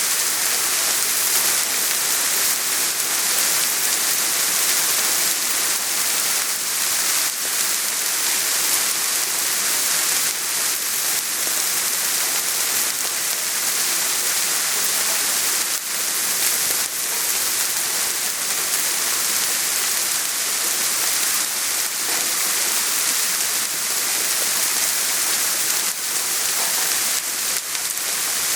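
Steady soft rain falling, a continuous hiss with faint scattered drop ticks.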